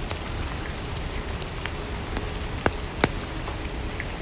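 Steady rain: an even soft hiss, with a few sharp ticks scattered through it.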